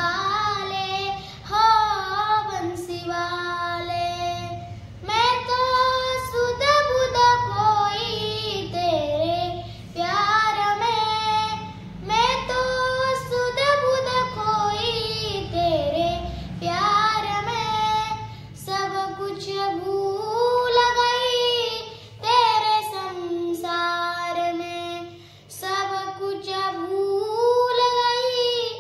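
A young girl singing a Marathi gavlan, a Varkari devotional song, in long ornamented phrases with short breaks for breath every couple of seconds.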